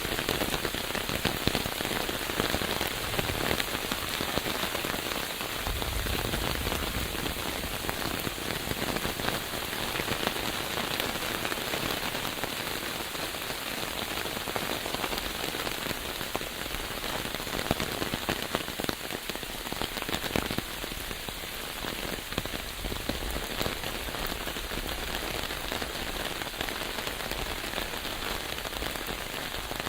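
Steady rain falling, with many separate close drops heard as small ticks.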